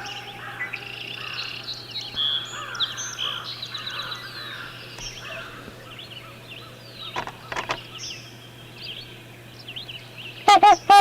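Songbirds chirping and whistling in many short notes, with a steady low hum beneath. Near the end comes a loud, horn-like call of a trumpeter swan, twice in quick succession, with a few brief clicks before it, about seven seconds in.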